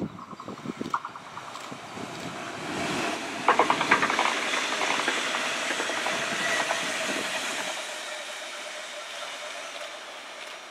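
Stadler Flirt 3 electric multiple unit (DB class 429) passing by: the rush of wheels on rail swells, with a quick run of clicks as the wheels cross rail joints about three and a half seconds in, then a steady hiss with a faint whine that fades as the train moves away.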